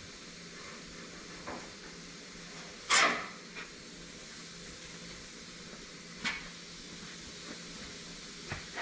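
A few scattered knocks and clunks of metal parts and tools being handled, with one loud clunk about three seconds in, over a steady background hiss.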